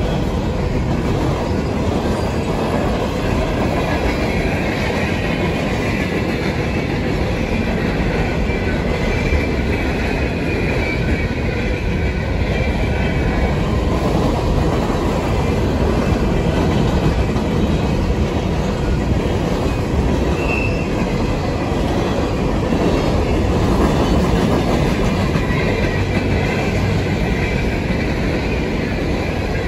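Empty coal hopper cars of a freight train rolling steadily past, their steel wheels rumbling on the rails, with a light high squeal from the wheels at times and once about twenty seconds in.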